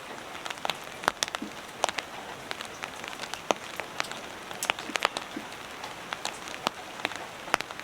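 Rain falling on a hut roof and porch: a steady hiss with individual drops striking sharply and irregularly, several a second.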